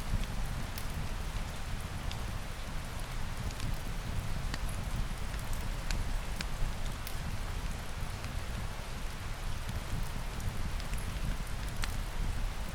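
Steady rain with a low rumble underneath, mixed with a wood fire crackling in scattered sharp pops.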